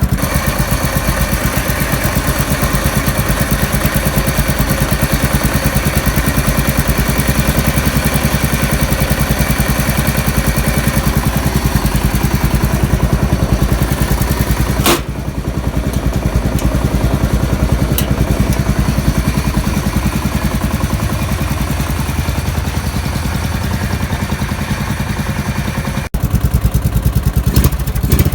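Modified Briggs & Stratton 12.5 hp single-cylinder engine in a Murray riding mower, running at idle through a straight pipe with a steady, rapid beat. It dips briefly halfway through, cuts out sharply for an instant near the end, then runs louder.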